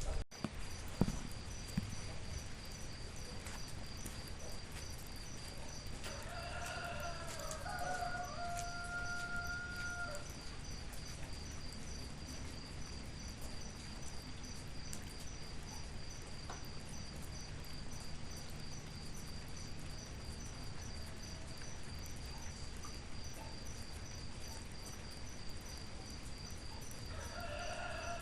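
A rooster crows: one long crow about six seconds in that ends on a held note, and another that starts near the end. Both sound over a steady hiss of rain.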